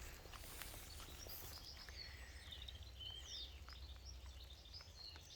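Faint birdsong: a string of small chirps and short whistled notes, busiest in the middle, over a steady low rumble.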